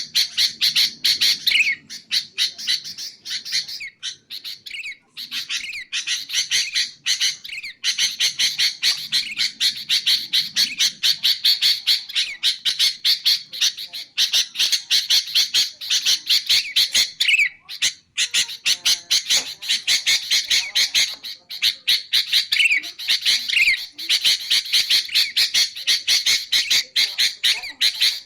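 Sooty-headed bulbuls (kutilang) calling in a dense, rapid run of short, harsh chattering notes, broken by a few brief pauses. These are the calls used to lure wild bulbuls.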